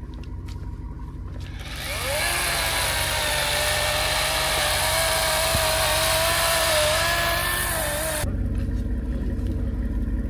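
Chainsaw starting up about two seconds in, revving sharply and running at high revs with a steady, slightly wavering whine for about six seconds. It stops abruptly, leaving a low engine rumble.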